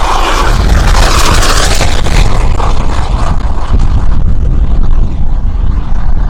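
Heavy wind buffeting on the microphone, with the rushing whoosh of a turbine-powered RC jet passing that fades after about two seconds.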